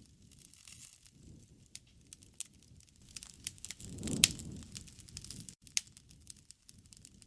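Wood fire burning, crackling with scattered sharp pops and a low flutter of flames that swells about four seconds in, with one loud pop at its peak.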